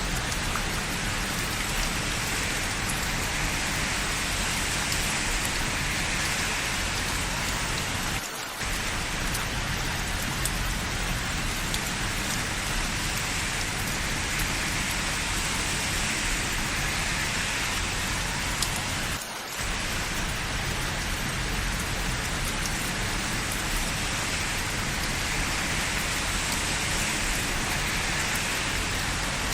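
Steady rain falling, an even hiss that briefly drops away twice.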